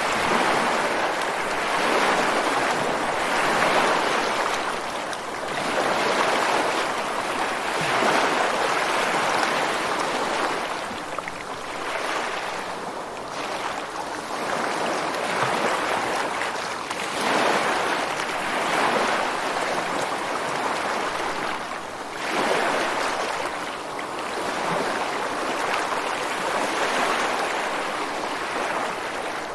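Ocean waves breaking on a beach and washing against rocks, a continuous rushing surf that swells and eases every few seconds.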